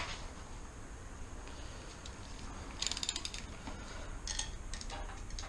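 Socket ratchet wrench clicking in short runs as bolts on the transmission are turned: a sharp click at the start, then quick runs of clicks about three seconds in and again around four and a half seconds.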